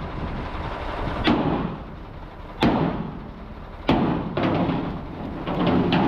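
Three sharp knocks, evenly spaced about a second and a quarter apart, each with a short ring, over steady workshop noise, with a quicker flurry of clicks near the end.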